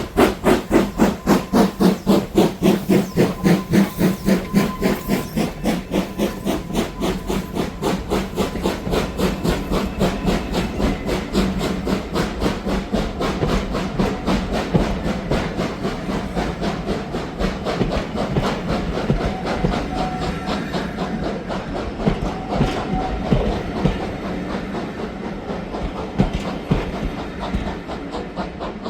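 Steam locomotive working hard, with fast, even exhaust beats and hiss, loudest at the start and growing fainter as it draws away, with the clatter of train wheels.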